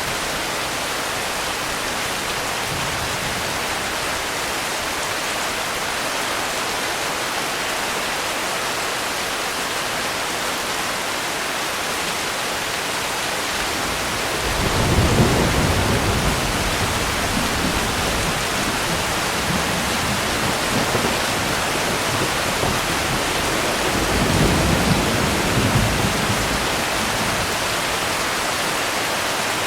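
Steady heavy rain, with low thunder rumbling in about halfway through and swelling again near the end.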